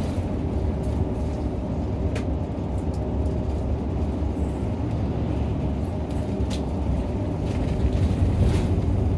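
Nissan Diesel route bus running, heard from inside the cabin: a steady low engine and road rumble with a few faint clicks and rattles.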